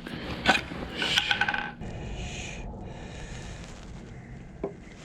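Rubbing and scraping with a few sharp knocks, from handling a freshly caught, slimy conger eel.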